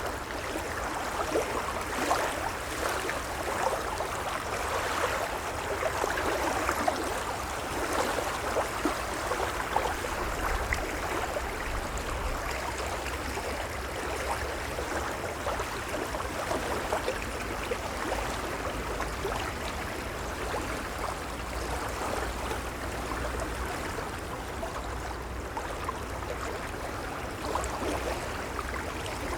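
Gentle small waves lapping at the water's edge: a continuous wash of splashing and trickling water, a little louder and busier in the first third.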